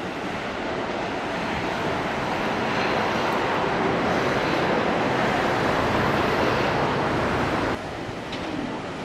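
Hankyu electric train running close by at speed, a steady rushing of wheels and air that swells slightly and then drops off abruptly near the end.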